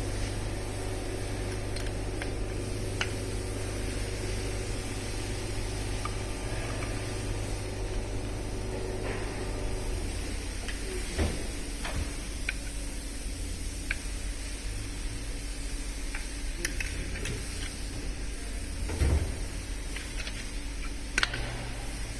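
Scattered light clinks and knocks of tools and engine parts being handled during engine teardown, with a heavier knock near the end, over a steady low hum.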